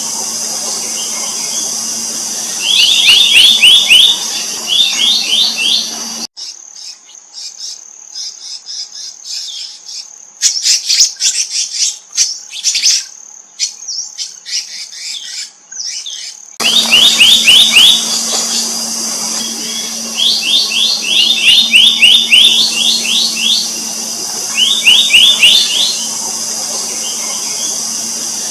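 Black-naped monarch calling in bursts of quick ringing notes, several to a burst, repeated every couple of seconds over a steady high insect drone and a low hum. For about ten seconds in the middle this drops away abruptly, leaving a quieter stretch of scattered sharp, high chirps.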